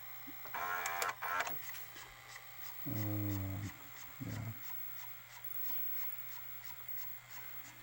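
Sony SLV-575UC VHS VCR tape mechanism running in rewind scan mode, a printer-like mechanical whirr with faint regular ticking about three times a second. A short low hum breaks in twice near the middle.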